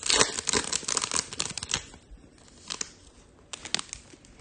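Foil wrapper of a trading-card pack crinkling and tearing for about two seconds, then a few light clicks as the cards are handled.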